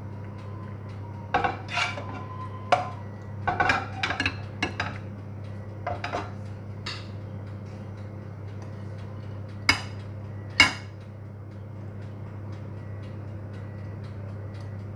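A utensil clinking, knocking and scraping against a bowl and baking pan as macaroni is transferred. There is a quick scatter of clinks in the first five seconds and two sharper knocks about ten seconds in, over a steady low hum.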